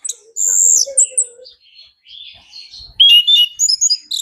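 Chestnut-capped thrush (anis kembang) singing a fast, varied song of loud whistles, sharp chirps and short trills, in full song with many borrowed phrases.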